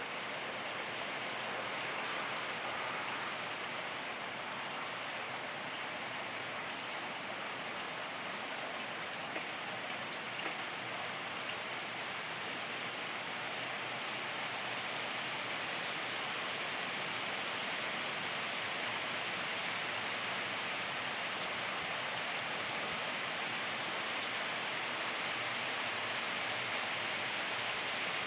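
Steady rainfall, an even hiss of falling water with a faint tick or two of drops about ten seconds in.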